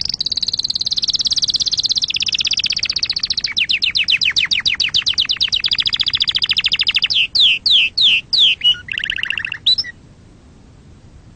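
Domestic canary singing one long phrase. It opens with very fast trills that slow about a third of the way in, then breaks into a few separate downward-sweeping notes and a short buzzy phrase, and stops near the end.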